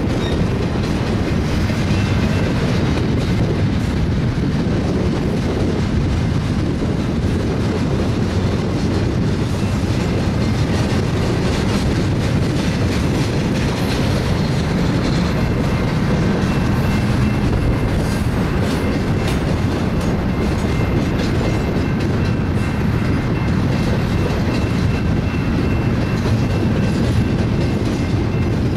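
Double-stack intermodal train's well cars rolling past: a steady rumble of steel wheels on rail with clickety-clack over rail joints, and a faint high wheel squeal that comes and goes.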